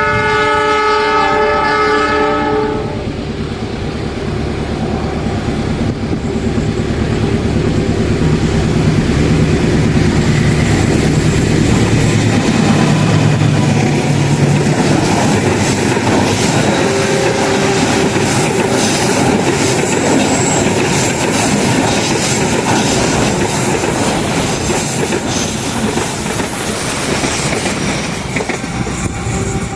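A diesel locomotive's horn sounds once for about two and a half seconds. Its engine then passes, and a train rolls by with wheels clattering steadily over the rail joints, fading slightly near the end.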